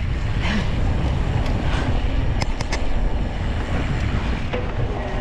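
Wind rushing over the microphone and mountain-bike tyres rolling over dirt and rock while riding a flowy trail, with a few sharp clicks and rattles about two and a half seconds in.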